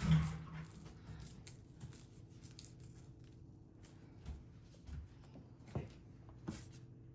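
Light handling noises: a thump at the start, then scattered short clicks and knocks, over a faint steady hum.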